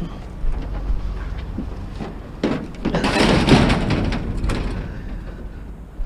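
Aluminum awning scrap being handled on a truck's load: several knocks, then a dense metallic scraping and rattling in the middle that fades off, over a steady low rumble.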